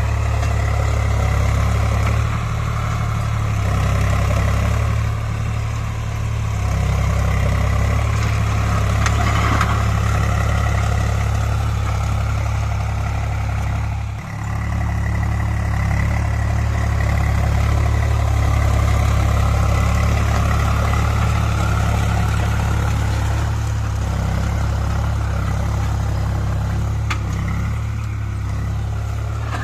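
Swaraj 735 tractor's three-cylinder diesel engine running steadily, with a brief dip in level about halfway through.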